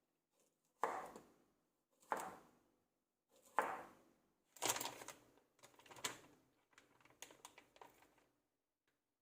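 A series of about six short knocks and clatters, one every second or so, the later ones trailing off into small clicks, in a small room.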